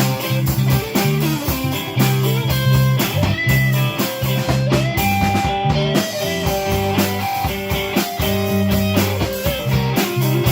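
Live rock band playing a mid-tempo song: guitar and bass over a drum kit keeping a steady beat.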